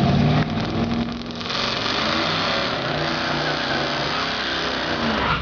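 Vintage hot-rod drag cars, a '56 Mercury and a '51 Chevy truck, accelerating hard down the strip. The engine pitch climbs from about a second and a half in.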